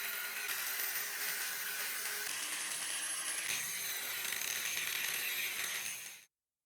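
A small electric power tool running steadily with a high whine over a grinding hiss, the pitch shifting slightly twice; it cuts off suddenly near the end.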